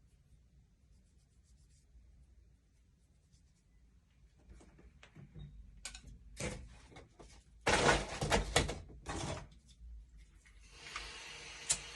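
Quiet at first, then a run of knocks, clatters and scrapes from objects being handled, loudest about eight seconds in, with a hiss building near the end.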